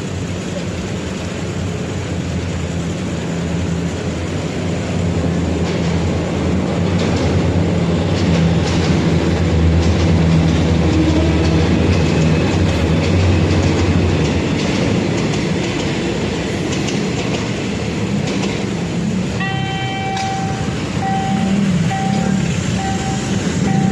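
A train passing a level crossing: a steady low engine drone with wheels clicking over the rails through the middle. Near the end a repeating pulsed tone starts and keeps going.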